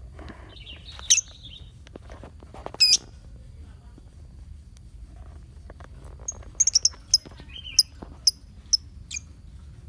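Lovebirds in a colony giving short, sharp, high chirps: one about a second in, another near three seconds, then a quick run of chirps over the last few seconds.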